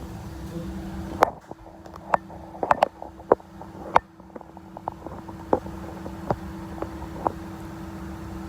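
Kitchen work sounds: about a dozen sharp, irregular knocks and clatters of utensils or containers over a steady hum.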